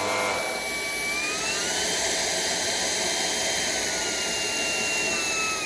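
Shark PowerDetect vacuum's motor running with a steady high whine. The whine climbs in pitch about a second and a half in as the motor speeds up, holds, and starts to wind down at the very end as it is switched off.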